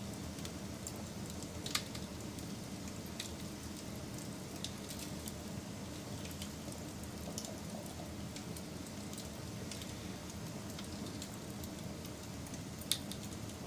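Campfire burning: a steady low rush with scattered small crackles, and two sharper pops, one about two seconds in and one near the end.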